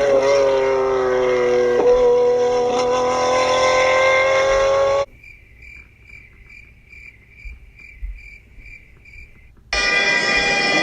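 Car engine running loudly at a steady, slightly wavering pitch that cuts off abruptly about halfway through. A quieter stretch follows with a faint high chirp repeating about twice a second, then loud engine noise starts again suddenly near the end.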